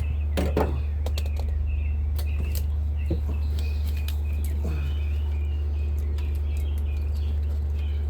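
Birds chirping again and again over a steady low hum, with a few sharp clicks and knocks in the first half.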